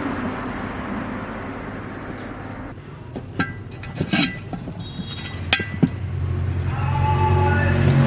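A steady hiss that cuts off about three seconds in, then metal parts clinking a few times, then a low engine-like hum that comes in and grows louder near the end.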